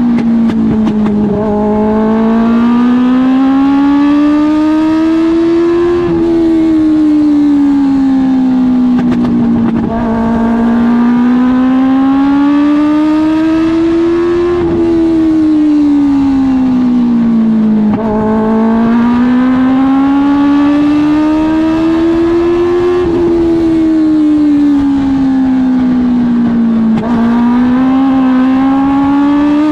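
Suzuki GSX-R1000 inline-four motorcycle engine in a dwarf race car running at racing speed. Its pitch climbs steadily for about four seconds, then slides back down for about four, repeating roughly every eight to nine seconds as the car laps the short oval.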